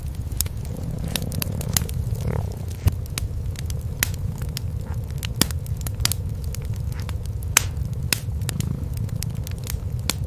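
Wood fire crackling in a fireplace, with sharp irregular pops, over a steady low rumble of cats purring.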